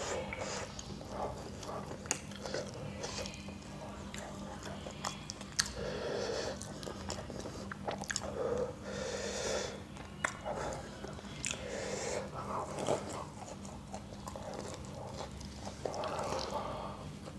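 Close-up chewing and biting of fried samosas and raw green chillies: wet mouth sounds in repeated bouts with sharp crunchy clicks.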